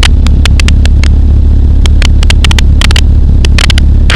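Pulsar XP microlight aircraft's engine and propeller droning steadily in flight, heard loud from the cockpit, with irregular sharp clicks scattered through it.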